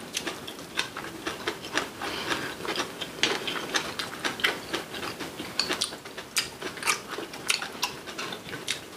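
Close-miked eating of braised kimchi (kimchi jjigim) and rice: a dense run of quick, irregular wet clicks and crunches from chewing.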